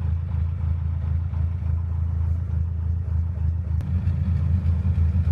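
Narrowboat engine running steadily, a low rumble.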